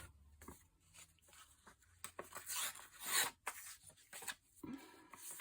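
Sheets of paper being handled and rubbed: irregular scraping and swishing strokes, the loudest about three seconds in.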